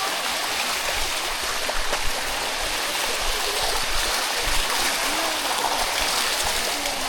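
Steady rush of water running down a shallow limestone cascade waterfall, with faint voices in the background.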